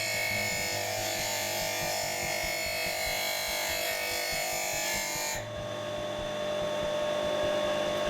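Electric power tool running, over background music, cutting out about five and a half seconds in.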